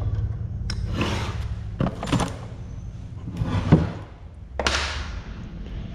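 Several separate knocks and clunks of engine parts and tools being handled and set down during an engine teardown, over a steady low hum.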